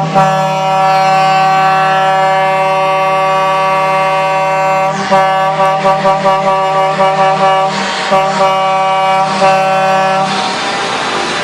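Truck air horn sounding a loud two-note chord, held steadily for about five seconds, then pumped in quick repeated blasts for about five seconds before it stops about ten seconds in.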